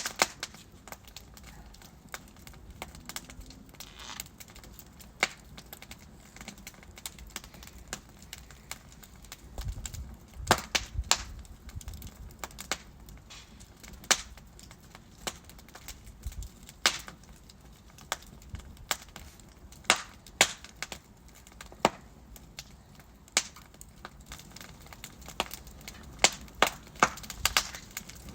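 Wood fire in a fireplace crackling, with irregular sharp pops and snaps from the burning logs over a low steady hiss, the pops thickest near the end.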